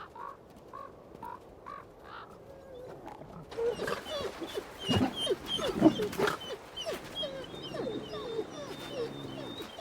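Several wolves yelping and whining together, a tangle of short gliding calls that sets in about three and a half seconds in, with thin high chirps above them.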